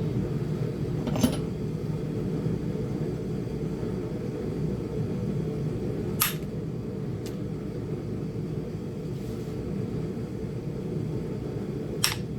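Indirect-percussion flintknapping on Flint Ridge chert: a few sharp clicking strikes on the punch, about a second in, around six seconds in and near the end. Under them runs a steady low hum from a space heater.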